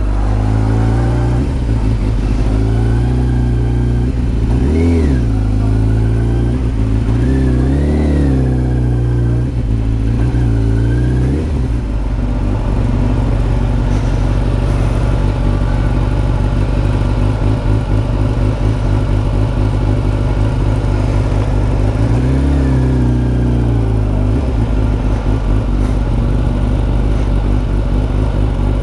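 Kawasaki ZZR600's inline-four engine running under way, its note steady and swelling up and down in pitch a few times as the throttle is opened and eased.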